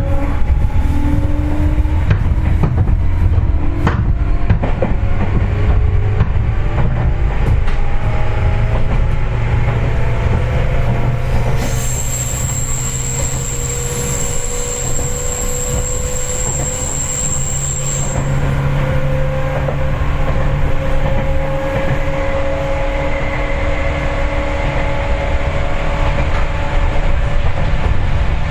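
Interior running noise of a Seibu 4000 series resistance-controlled electric train: a steady rumble of wheels on rail, with motor and gear whine that slowly rises and falls in pitch. For about six seconds near the middle, a high-pitched steady wheel squeal is heard, as on a curve.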